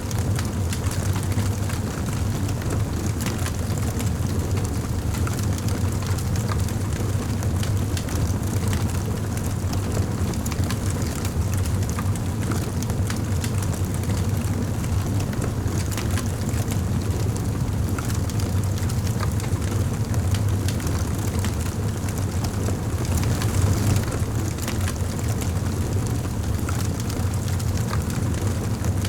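Wood fire burning in a fireplace: a steady low rumble of flame with frequent small crackles and pops from the burning logs.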